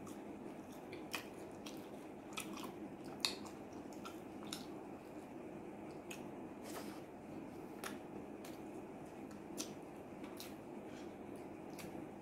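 Close-miked eating: a man chewing fried chicken, rice and potato fries, with scattered short wet smacks and clicks from his mouth and hands, the sharpest about three seconds in. Under it runs a steady low room hum.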